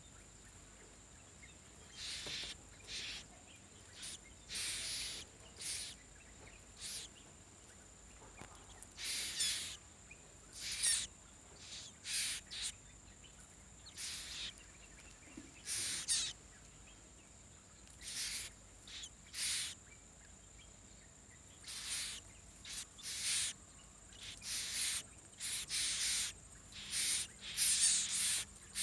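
Short, harsh, raspy calls from a nestling bird, repeated every one to two seconds and coming louder and faster near the end.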